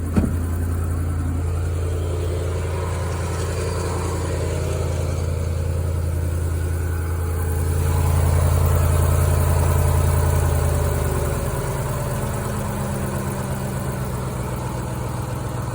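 Ford 5.4-litre three-valve V8 idling steadily just after its first start-up with a new exhaust manifold, nice and quiet with no exhaust-leak tick, the sign that the cracked manifold's leak is cured. A short knock comes right at the start, and the engine grows louder for a few seconds about eight seconds in, then settles back to a slightly lower idle.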